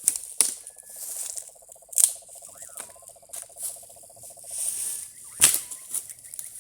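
Dry fallen branches and twigs cracking and snapping as firewood is gathered, with several sharp cracks, the loudest about two and five and a half seconds in. A steady pulsing animal trill runs under them for about four seconds, with a few short bird chirps.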